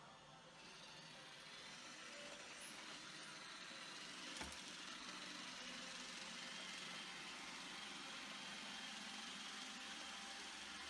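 Roomba robot vacuum running: a faint, steady hum of its motor and brushes that gets a little louder about half a second in, with one sharp click about four seconds in.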